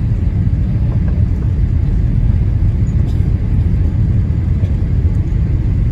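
Steady low rumble of cabin noise inside a Boeing 787-8 Dreamliner on final approach, engines and airflow heard through the fuselage.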